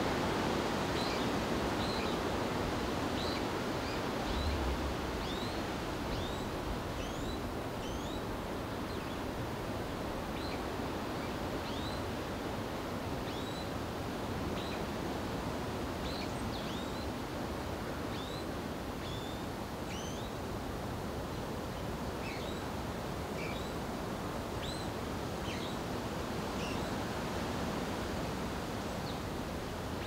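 Small birds chirping: many short, quick, high notes, roughly one or two a second, over a steady rushing background noise.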